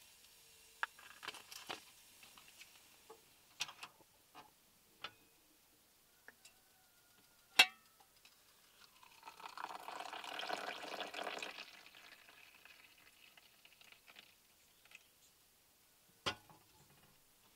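Scattered drops falling from the trees and tapping on the car's roof and body, heard from inside the car: irregular single taps, one sharp one about halfway through and another near the end, with a short flurry of drops, splashy and hissing, lasting a few seconds a little past halfway.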